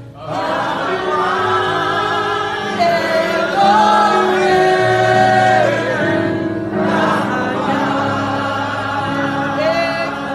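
Worship music: voices singing a slow song in long, wavering held notes over sustained chords.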